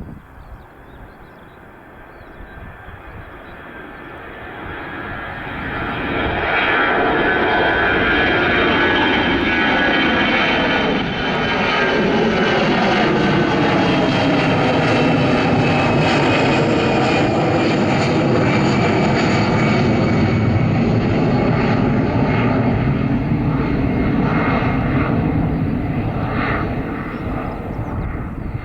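An airliner's engines passing close by. They grow louder over several seconds, then stay loud for about twenty seconds while their whine slowly falls in pitch as the aircraft goes past.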